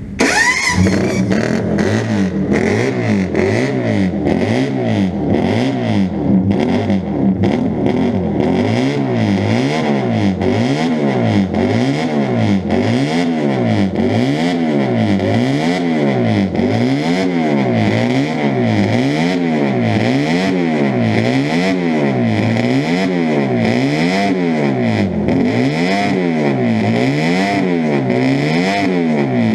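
Honda RC145 replica's single-cam CB160 parallel-twin engine, bored out to 175 cc, revving through megaphone exhausts. It comes in suddenly and is blipped up and down in a steady rhythm, roughly once a second, with a deep bellow.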